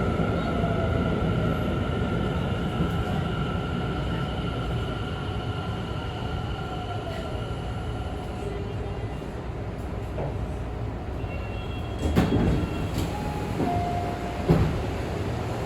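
Tobu 50000-series electric train standing at a station platform: a steady low hum with a thin electrical whine that fades out about halfway through. Near the end come two sharp knocks with brief tones around them.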